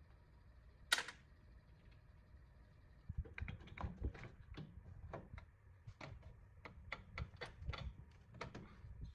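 A single sharp click about a second in, then from about three seconds an irregular run of light clicks and taps, several a second, like hand work with small tools or parts.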